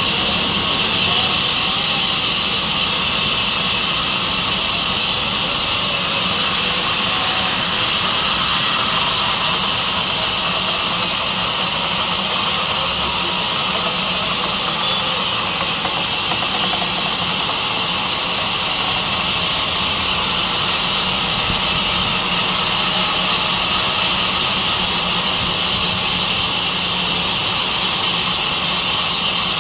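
Sawmill saw machine running steadily: a constant high-pitched hiss over a low hum, with no change in pace.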